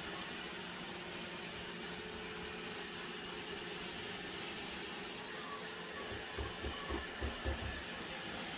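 Robot vacuum-mop running with a steady whir of its suction fan and brushes. About six seconds in comes a quick run of about six dull low thumps.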